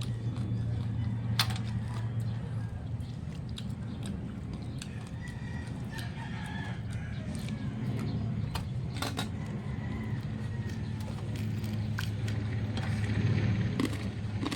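Rooster crowing in the background, over a steady low hum, with a few sharp clicks.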